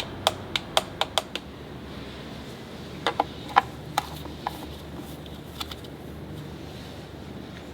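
Sharp, short clicks and taps: a quick run of about seven in the first second and a half, a few more around three to four seconds in, and a couple more later, over a steady low hum.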